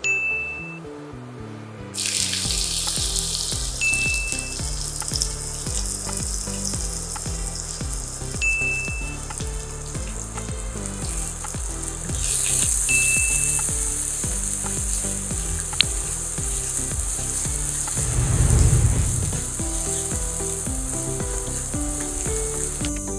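Sliced onions dropped into hot oil in a nonstick frying pan, sizzling steadily from about two seconds in; the sizzle gets louder about halfway through as more vegetables go into the pan and are stirred with a spatula.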